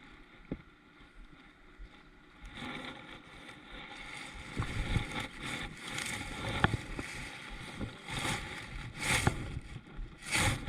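Water sloshing and splashing around a kayak, with several short splashy knocks that get louder after the first couple of seconds.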